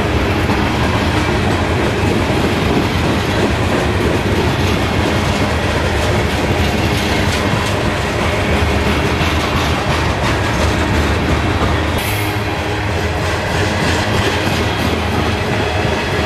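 Manifest freight train rolling past at close range: a steady, loud rumble of steel wheels on rail with faint repeated clicks. A brief high hiss comes about twelve seconds in.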